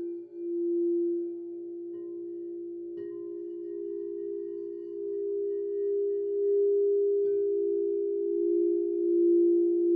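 Crystal singing bowls ringing in long, overlapping steady tones that swell and fade. A new bowl is gently struck about two, three and seven seconds in.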